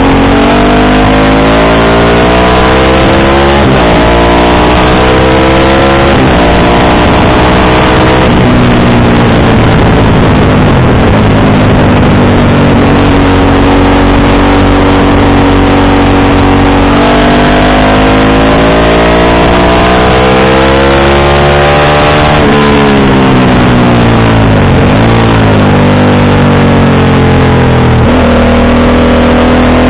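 Motorcycle engine through an aftermarket JC exhaust, under way and pulling up through the gears. The pitch climbs and then drops at each shift, holds steady for a while, falls as the throttle closes about three-quarters of the way through, and then climbs again. A steady rush of noise runs underneath.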